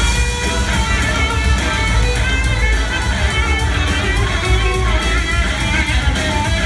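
Live blues-rock band jamming: electric guitar playing bending melodic lines over bass and drums.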